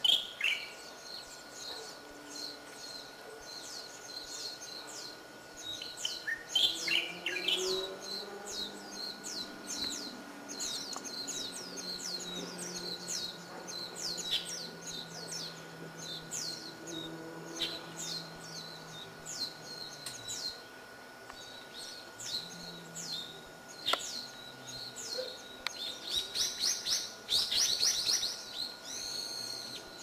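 Small birds chirping: many short, quick, falling notes, thickening into a busy flurry near the end, over a faint steady high tone.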